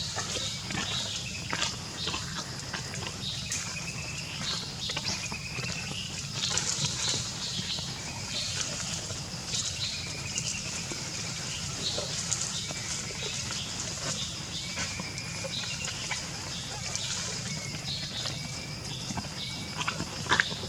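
Baby monkey crying: short, high, wavering calls repeated every second or two, typical of a hungry infant's cry, with small clicks and taps in between.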